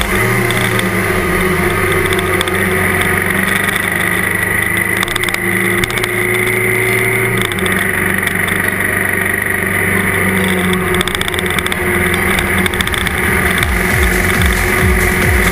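Trail motorcycle engine running steadily at cruising speed on a dirt track, heard from a camera mounted on the bike, with small shifts in engine pitch.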